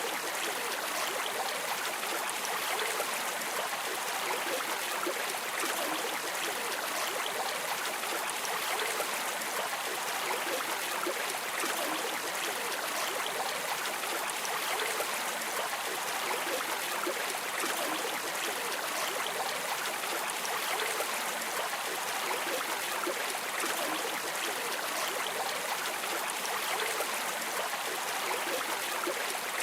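Stream water flowing steadily, an even rushing sound with little low end and no breaks or changes.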